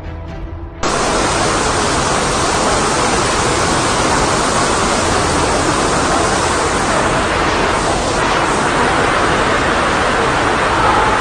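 Background music cuts off about a second in, replaced abruptly by a loud, steady rushing noise with no distinct tones or rhythm.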